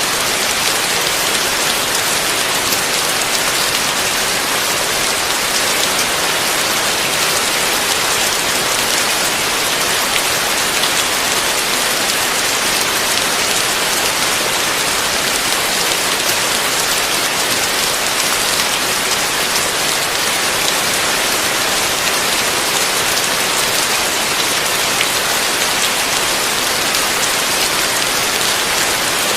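Heavy rain pouring steadily, a dense, even hiss that neither builds nor fades.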